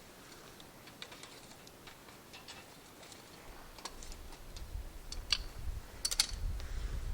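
Wood fire crackling in a fire pit, with irregular small pops and clicks, a few louder ones in the second half, and a low rumble coming in about halfway.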